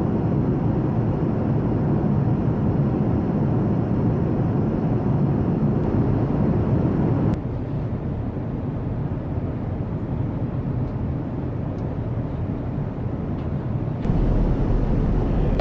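Steady cabin noise of an Airbus A380 in cruise: an even, low rush of air and engine noise. It drops a little about halfway through and rises again near the end.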